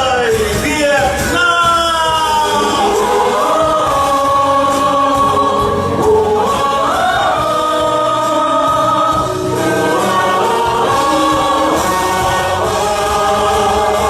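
Choir singing long held notes, with a few sliding phrases, over backing music.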